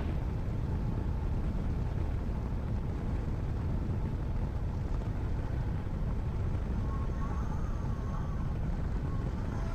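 Steady low rumble of a Cessna 172's engine and airflow, heard from inside the cabin around landing. A faint thin tone comes and goes near the end.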